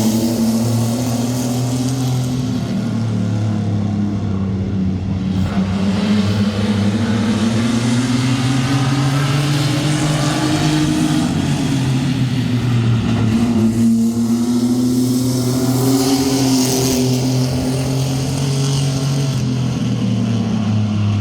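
A field of sport trucks (mini pickup race trucks) running together at race pace on a short oval, engines rising and falling in pitch several times as the throttle comes on and off around the laps.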